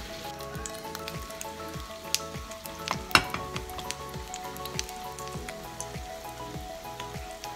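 Matzah pieces shallow-frying in hot oil in a stainless steel pan, sizzling with a steady scatter of small crackles and pops. A single sharp click a little over three seconds in is the loudest sound.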